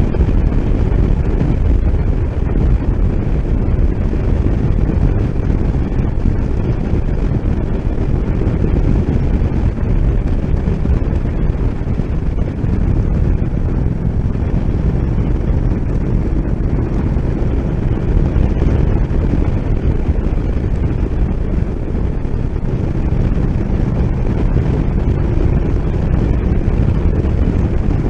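Steady wind rush buffeting the microphone on a moving motorcycle, a heavy low roar of wind and road noise without breaks.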